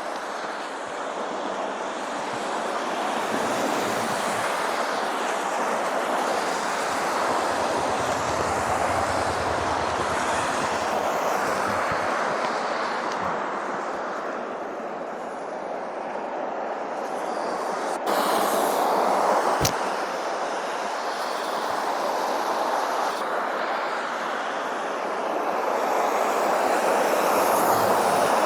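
Traffic on a snow-covered highway: a steady rushing of vehicles and tyres that swells and fades as they pass, with two sharp clicks a little over halfway through.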